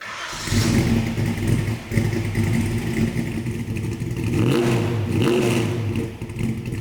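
1970 Ford XW GT Falcon's 351 V8 running at a steady idle, revved up and back down twice in quick succession past the middle.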